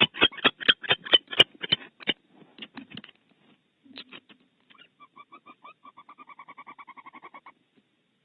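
Barn owls in a nest cavity: a quick series of sharp knocks that fades out over the first two seconds, then a soft, rapidly pulsed call near the end.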